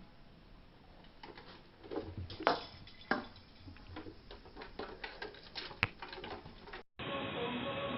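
An irregular run of light clicks and taps, a few louder than the rest. Near the end it cuts abruptly to a steady hum.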